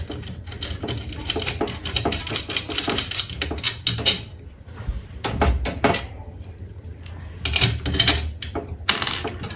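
Hand work on workshop parts: a run of irregular sharp clicks and knocks with some scraping, louder in clusters about halfway through and near the end.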